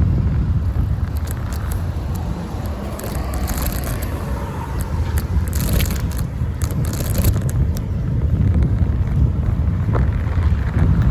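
Wind rumbling steadily over the microphone of a phone mounted on a moving bicycle, with clicks and short rattling bursts about three seconds in and again around six to seven seconds in.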